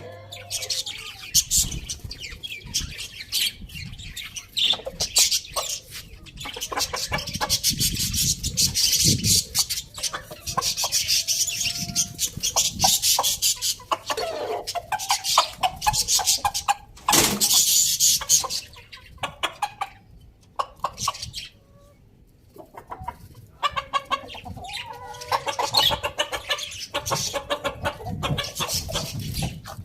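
Chickens clucking in short calls amid dense, rapid clicking and rustling as they peck at spinach leaves, with a brief quieter stretch about two-thirds of the way through.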